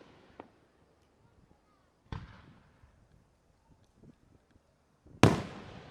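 Aerial firework shells bursting: a smaller bang about two seconds in and a louder one near the end, each trailing off in a rolling echo.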